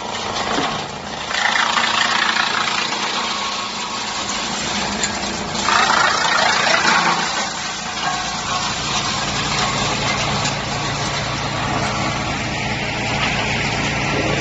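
Drum wood chipper running under load: a steady machine hum with a dense, noisy crunch of wood being chipped, surging louder about a second and a half in and again around six seconds in as more wood waste goes through.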